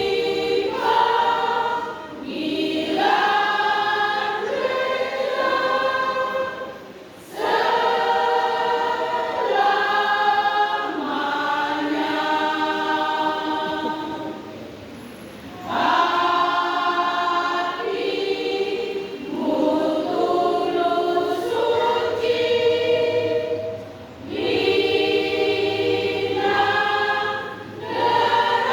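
Church women's choir singing in several parts, phrase after phrase, with short breaks between the phrases.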